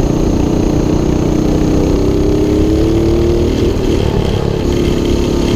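212cc Motovox mini bike's single-cylinder four-stroke engine under throttle. Its pitch climbs over about two seconds as the bike picks up speed, dips briefly, then holds steady.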